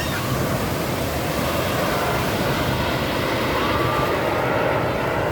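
Jet aircraft flying past, a steady rushing engine noise that grows slightly louder, over the wash of beach surf.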